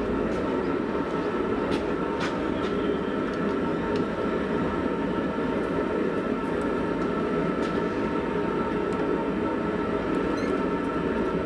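Steady, even roar of a blacksmith's forge running, with a few faint ticks.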